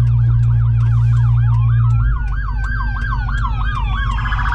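Police siren in a fast yelp, rising and falling about three times a second, with a second siren's slower wail rising and falling across it. A car engine drones low underneath and eases off about two seconds in.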